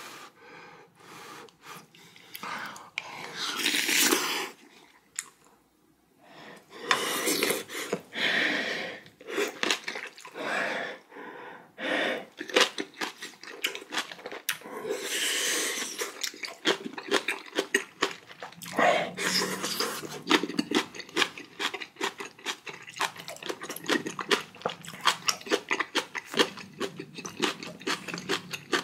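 Close-miked chewing of rice and spicy kimchi stew, with wet mouth clicks, and several long noisy breaths out through the mouth, as from food that is very hot and spicy.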